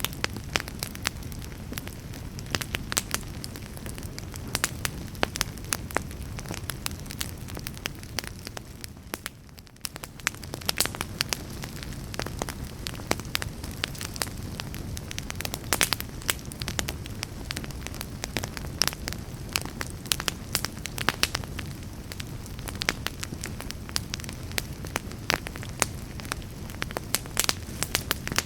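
Wood fire burning in a fireplace: a steady low rumble of flames with frequent sharp crackles and pops from the burning logs. It briefly goes quieter about a third of the way through.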